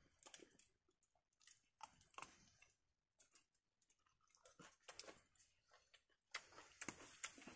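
Faint chewing with scattered light clicks of eating, growing busier near the end.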